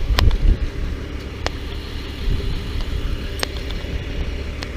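Car running, a steady low rumble with a few faint sharp clicks.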